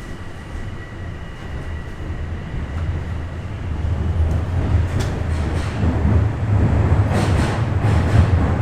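Bombardier Toronto Rocket subway train pulling away from a station. A faint steady whine sits over a low rumble of motors and wheels that grows louder as the train gathers speed, with a rush of higher rail noise near the end.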